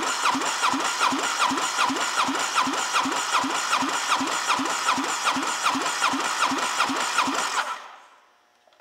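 2004 Polaris MSX 150 four-stroke engine being cranked over by its starter for a compression test, with an even beat of about three to four compression pulses a second. The cranking stops about seven and a half seconds in and winds down. The gauge on the magneto-side cylinder reads 132 psi.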